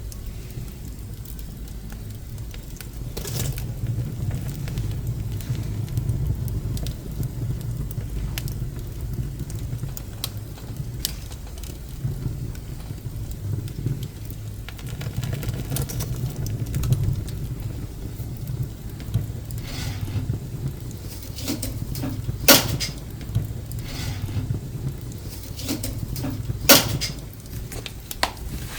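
Pine scrap wood burning in a wood stove: a steady low rush of flame with scattered crackles, and two sharp pops in the last third.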